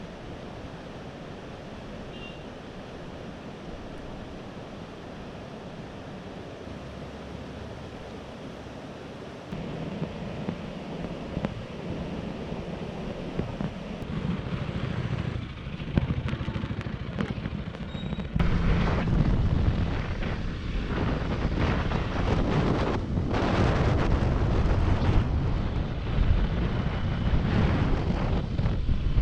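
Wind rushing over the microphone of a moving motorcycle, mixed with engine and road noise. It gets louder about a third of the way in and again a little past the middle.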